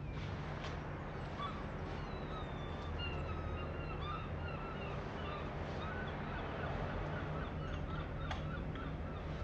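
Small birds chirping and twittering in quick, scattered calls over a steady low background hum.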